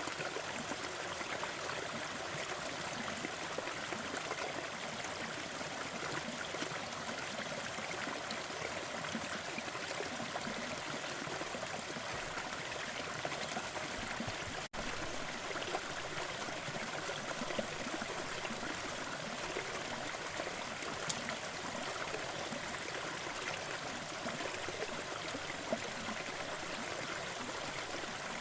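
Waterfall: a steady rush of falling water, with a split-second break in the sound about halfway through.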